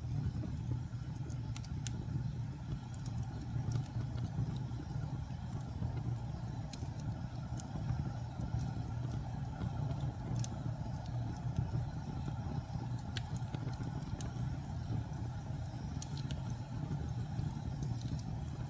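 Wood fire burning in a fireplace: a steady low roar of flames with sharp crackles and pops every second or two.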